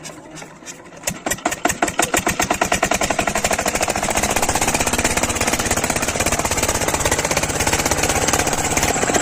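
Kirloskar diesel engine on a water pump starting up: about a second in it begins firing in separate beats that speed up, settling into steady running from about four seconds.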